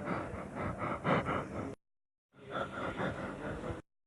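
A person's rapid, breathy panting, about four breaths a second, in two spells with a short pause between them.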